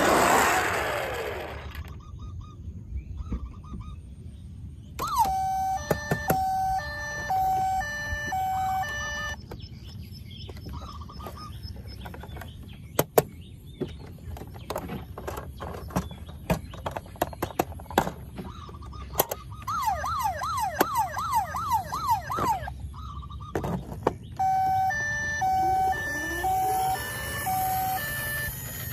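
Electronic siren sounds from a battery-operated toy vehicle: a repeating beeping pattern, then a fast rising warble about three times a second, then the beeping again. Sharp clicks and knocks of plastic toys being handled run throughout.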